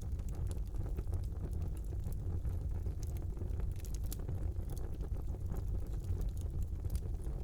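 Wood fire burning in a fireplace: a steady low rumble of the flames with irregular small crackles and pops, two sharper pops about three and four seconds in.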